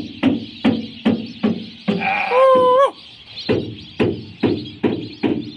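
A run of short, harsh calls, about two to three a second, over a steady high chatter of many birds. About two seconds in comes one longer, wavering, bleat-like call.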